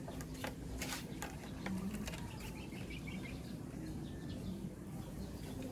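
A few light clicks, then a quick run of high chirps from a bird in the background, over a low steady hum.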